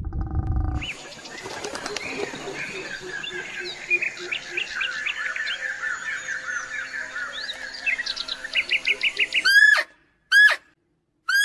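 Several birds chirping and trilling together in a busy chorus of quick, overlapping notes. Near the end this gives way to three loud, short calls, each under half a second, with silence between them.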